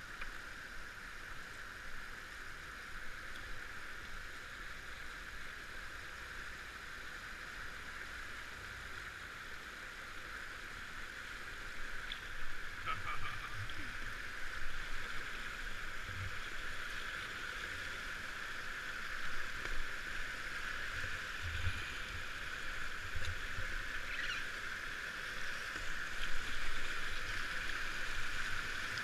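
Steady rush of river water, getting a little louder about halfway through, with a few soft low knocks.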